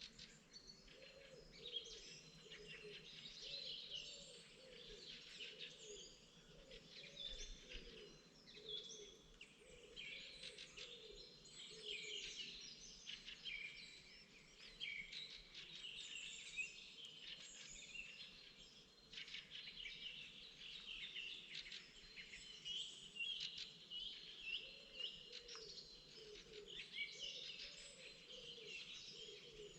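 Many songbirds singing at once in a spring chorus, a dense unbroken run of high chirps and trills, with lower repeated calls beneath them.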